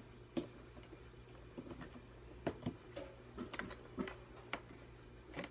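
Handling noise: scattered light clicks and knocks, about a dozen at irregular intervals, over a faint steady low hum.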